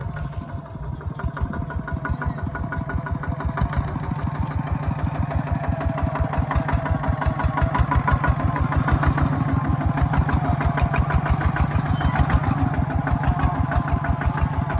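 Engine of a farm machine running with a rapid, even thudding beat, growing louder over the first several seconds and then holding steady.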